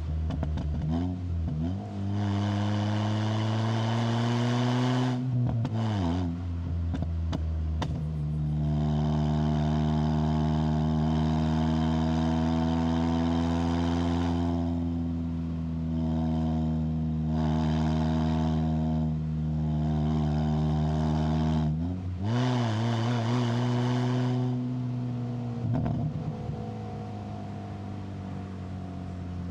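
Proton Inspira's 4B11 four-cylinder engine breathing through a MAX Racing R5500 aftermarket muffler, pulling hard uphill. The exhaust note climbs in pitch under acceleration and drops briefly at each gear change. It holds steady through long stretches and settles lower near the end as the throttle eases.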